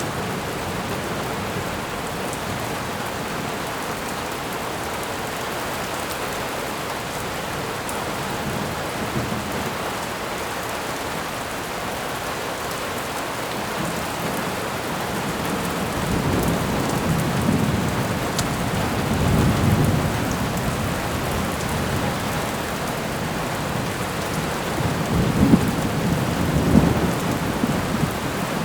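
Thunderstorm ambience: steady heavy rain, with rolls of thunder rumbling up about halfway through and again near the end.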